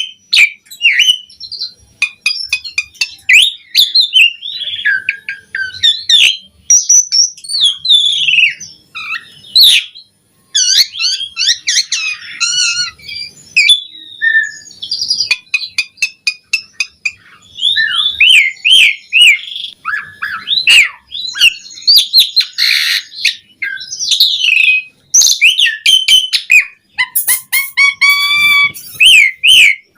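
A Javan pied starling (jalak suren) singing in full voice: a long, varied run of rapid whistles, chirps and harsh chattering notes, broken by a couple of short pauses.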